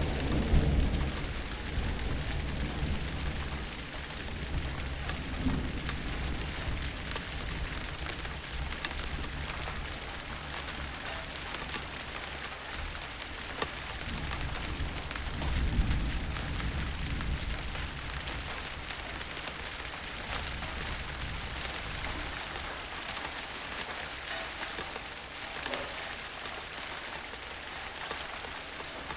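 Steady rain with fine crackling drops, joined by low rolls of thunder rumbling as it begins and again about halfway through.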